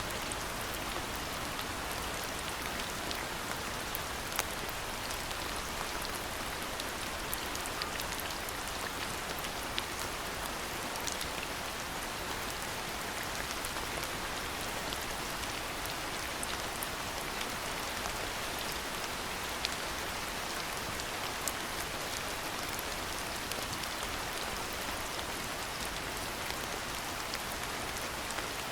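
Steady rainfall, an even hiss of rain with scattered sharper individual drop hits.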